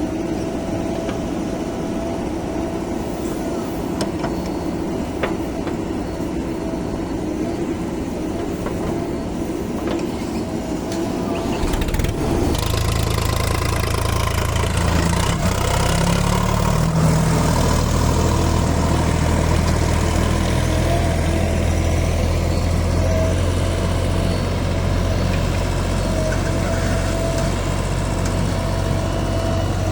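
Heavy diesel engines of a backhoe loader and farm tractors running. About twelve seconds in, a louder, deeper engine note comes in and holds steady.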